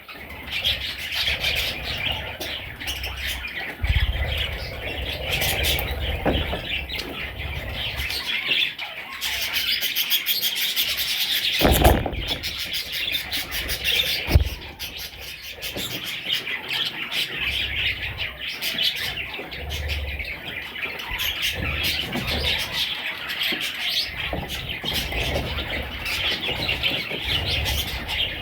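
Budgerigars chirping and chattering continuously, with several birds calling over one another and a few sharp knocks, the loudest about twelve seconds in.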